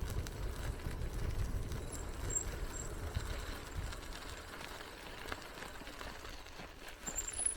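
Bicycle riding along a path: tyres rolling with a steady low rumble and small rattling ticks. A few short, high-pitched peeps come a couple of seconds in and again near the end.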